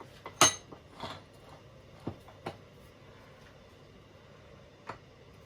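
Metal clinks and taps as tools and differential parts are handled: a sharp clink about half a second in, then a few lighter knocks spread through the rest.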